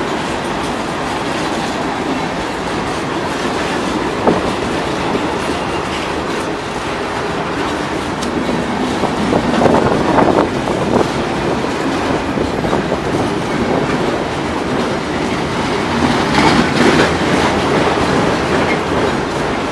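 Freight train of covered hopper cars rolling past at close range: a steady rumble of steel wheels on rail with clacking over the rail joints, a sharp click about four seconds in, and louder swells around the middle and again near the end.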